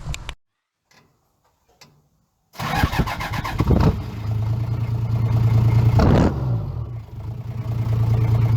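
Toyota 1VD-FTV V8 turbo diesel starting after a couple of seconds of near silence: it catches, is revved briefly twice, and settles to a steady idle.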